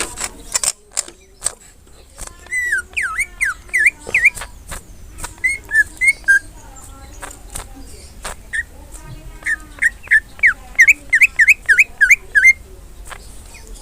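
Cucak ijo (green leafbird) singing: phrases of quick whistled notes that swoop up and down, the longest run of about a dozen notes coming near the end, with sharp clicks between the phrases.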